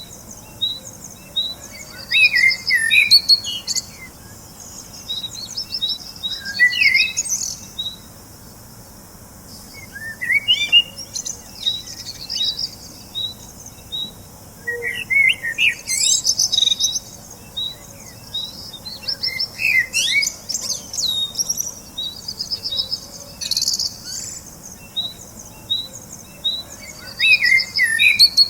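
Birds chirping and twittering. A steady run of short, evenly spaced high chirps, about three a second, runs under bursts of warbling song every few seconds.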